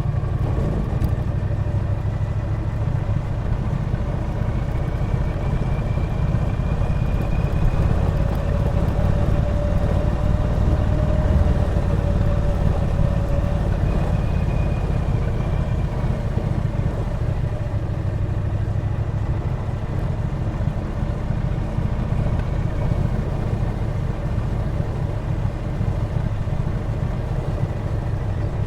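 Triumph Bonneville T120 parallel-twin engine running steadily while the motorcycle is ridden along, its note rising slightly about a third of the way in and easing back around the middle.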